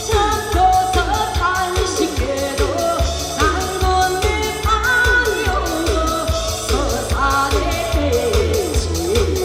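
A woman singing a trot medley live over a backing track with a steady, strong beat.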